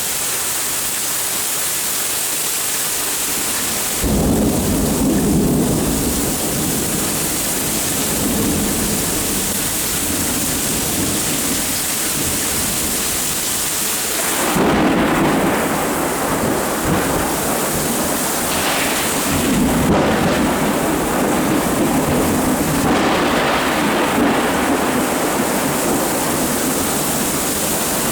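Steady rain with rolling thunder. The thunder comes in suddenly about four seconds in and rumbles on under the rain, swelling again about halfway through and later.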